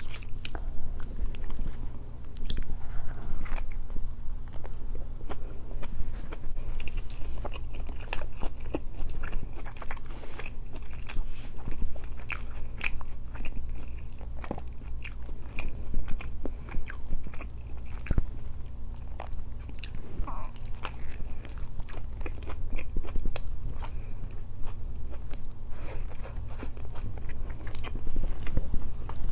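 Close-miked chewing and biting of a chicken wrap, with many small mouth clicks scattered throughout over a steady low hum.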